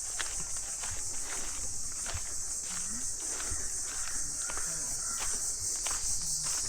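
Steady high-pitched chorus of insects in the forest, with footsteps on a dirt path at walking pace.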